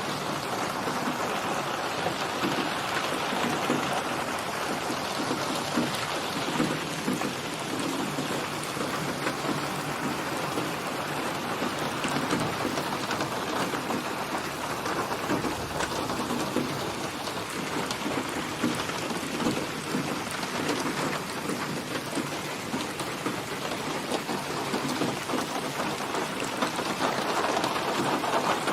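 Steady rain falling, with low thunder rumbling underneath.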